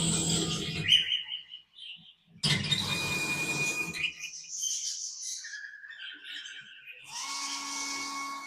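Power drill boring pilot holes in a plastic roofing sheet, running in short whining bursts, with aviary birds chirping between the bursts.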